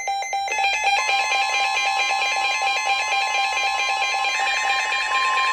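Weather alert radio alarms beeping in a fast, evenly repeating electronic pattern, with more alarm beeps layering in about half a second in. A steady high NOAA Weather Radio warning alarm tone joins about a second in.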